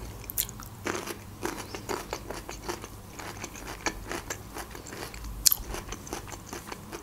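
Close-miked chewing of crunchy food: a steady run of small crisp crunches, with one sharper crunch about five and a half seconds in.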